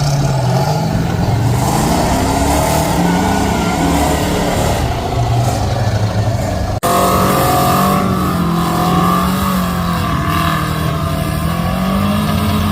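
Mud truck engine revving hard, its pitch rising and falling again and again as it works to get free of the mud, with a sudden brief break about seven seconds in.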